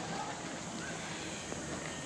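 Outdoor ambience: a steady background hiss with a few faint, short distant bird calls.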